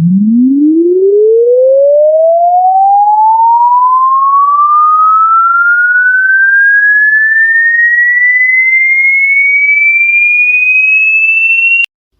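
An electronic test-tone sweep: a single steady tone gliding smoothly upward from a deep hum to a high whistle over about twelve seconds, then cutting off suddenly with a click near the end.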